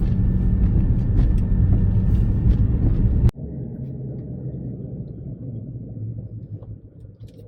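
Car engine running at a steady speed with a low drone. It cuts off abruptly about three seconds in to a quieter, steady engine rumble.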